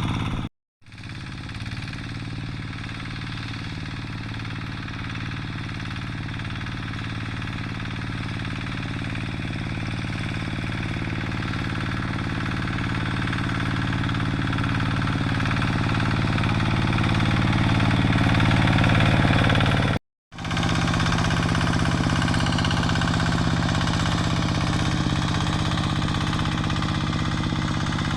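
Single-cylinder diesel engine of a Quick G3000 two-wheel hand tractor running steadily under plowing load, growing slowly louder. It drops out twice briefly at edits.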